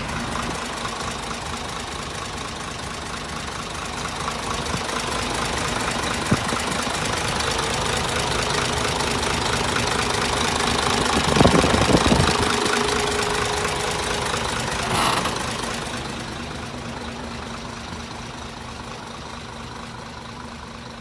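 Isuzu Forward truck's diesel engine running steadily, with a louder burst a little past halfway; the sound fades over the last few seconds.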